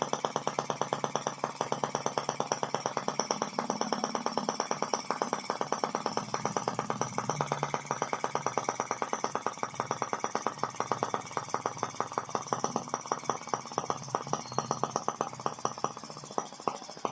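Model single-cylinder gasoline engine of the Benz No. 1 tricycle running steadily, firing in a fast, even beat of about seven or eight sharp pops a second. It gets a little quieter near the end.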